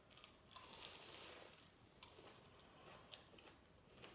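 Faint, irregular crunching of a man chewing a bite of crispy fried chicken drumstick.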